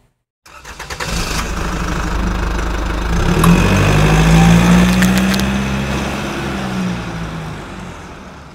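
A car engine sound effect: the engine cranks with rapid clicks, catches, and revs up about three seconds in, then dies away in a long fade.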